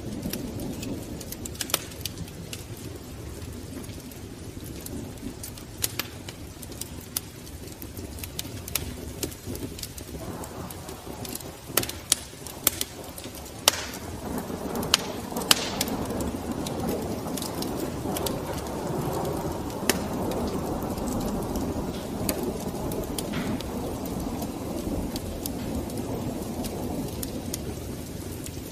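Wood fire burning in a fireplace: a low rumble of flames with scattered sharp crackles and pops, the rumble swelling about ten seconds in.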